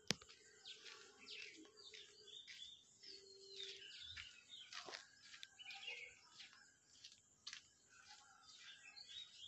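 Faint chirping of small birds in the background: many short, high calls and quick rising and falling notes, repeated throughout.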